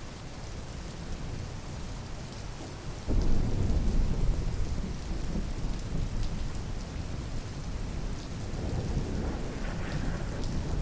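Steady rain falling, with a low rumble of thunder that starts suddenly about three seconds in and rolls on for several seconds before easing, swelling again near the end.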